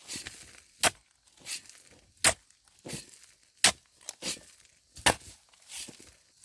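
A hand tool striking in a steady rhythm: a sharp hit about every second and a half, four in all, with a softer scraping swish between the hits.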